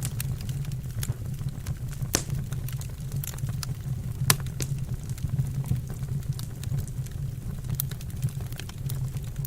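Wood fire burning in a fireplace: irregular sharp crackles and pops over a steady low rumble, with the loudest pops about 2 seconds and 4 seconds in.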